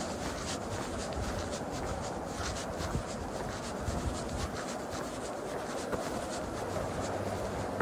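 Footsteps and the scratchy rub of clothing against the microphone while walking, with scattered small ticks and scrapes over a steady rushing noise.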